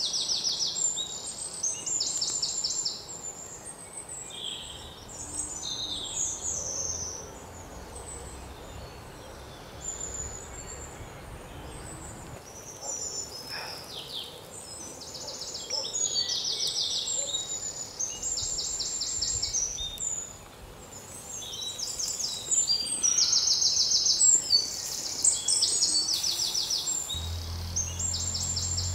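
Forest birds calling in repeated short, high, fast trills, over a steady outdoor background.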